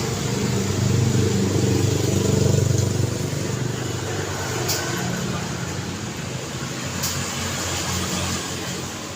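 Street traffic: a motor vehicle's engine rumble swells past during the first few seconds and fades, over steady road noise. Two brief clicks sound later on.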